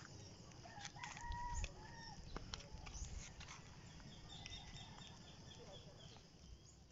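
A rooster crowing faintly once, about a second in, over a low rumble of wind and handling noise.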